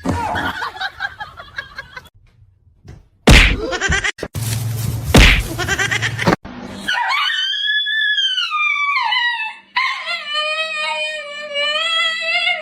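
A pet animal's drawn-out vocal cries: a long high whine that rises and then falls, then a steadier held cry near the end. Two loud sudden thumps come earlier.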